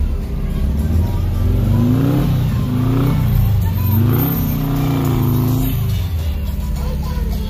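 Engine of a passing car revving up and down several times, from about a second and a half in until about six seconds, then dropping back.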